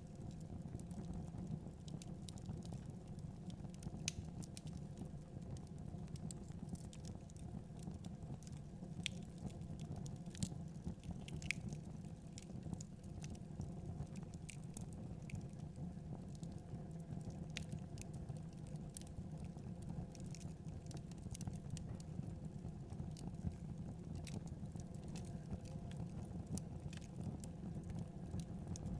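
Fireplace crackling: scattered sharp pops and snaps over a steady low rumble.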